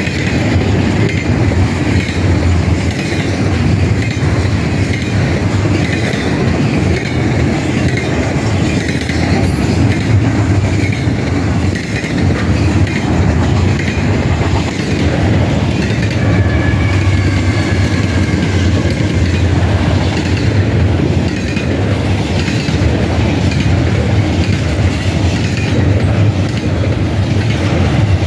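Loaded intermodal freight cars (double-stack container well cars and trailer-carrying spine cars) rolling steadily past at close range, with a continuous wheel-and-rail rumble and clickety-clack. A faint high squeal rises briefly a little past the middle.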